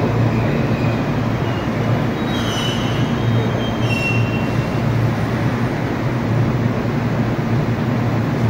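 Kintetsu Hinotori limited express train pulling slowly into an underground platform and stopping, with a steady low hum throughout. A high brake or wheel squeal sounds for about two seconds as it comes to a halt.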